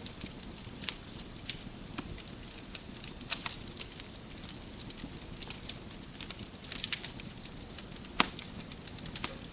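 Wood fire crackling in a fireplace: irregular sharp pops and snaps over a steady low hiss, with one loud pop about eight seconds in.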